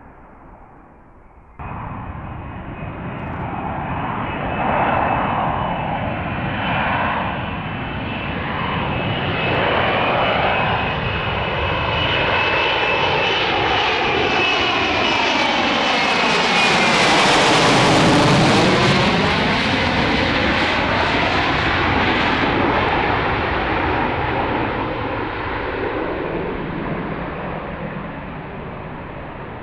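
F-35B Lightning jet passing by under power, with a high whine over the engine noise. It cuts in abruptly about a second and a half in, grows louder to its closest point about eighteen seconds in, then fades as it moves away.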